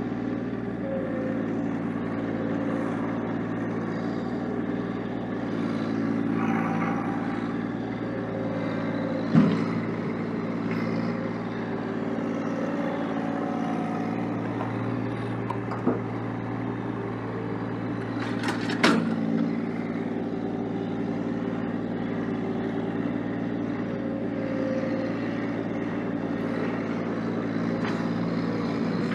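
Engine of a snow-plowing vehicle running steadily under load. A few short sharp knocks come through, two of them close together about two-thirds of the way in.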